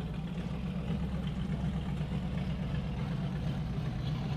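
A car engine idling steadily, a continuous low-pitched running sound.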